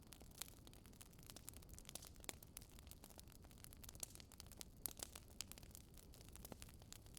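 Wood fire crackling faintly in a fireplace: irregular small pops and snaps over a soft low rumble of burning.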